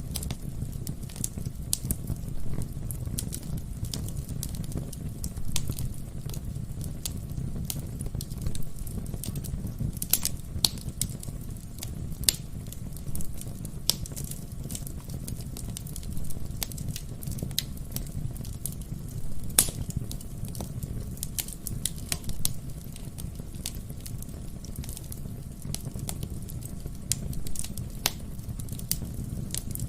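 Wood fire burning in a fireplace: a steady low rumble of flames with frequent irregular crackles and pops from the burning logs, a few of them sharper and louder.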